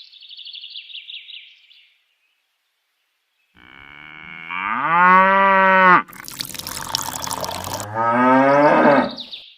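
Cow mooing twice: a long call that rises in pitch and then holds, and a shorter second moo over a rush of running water. A brief high chirping comes first, followed by a pause.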